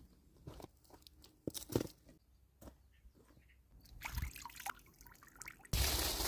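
Food-preparation handling sounds: scattered clicks and knocks, then a sudden hissing rush of liquid near the end.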